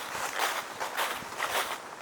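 Footsteps crunching through dry fallen leaves on a forest floor at a steady walking pace, about two steps a second.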